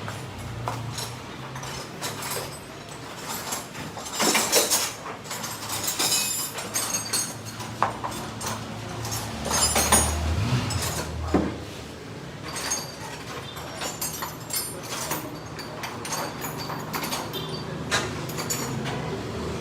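Metal tools and parts clinking and knocking irregularly during suspension work on a car, over a low steady hum.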